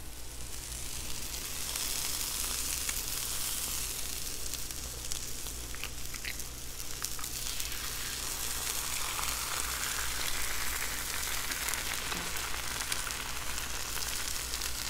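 Pork chop and egg frying on a hot Blackstone flat-top griddle: a steady sizzling hiss, with a few faint light clicks about three and six seconds in.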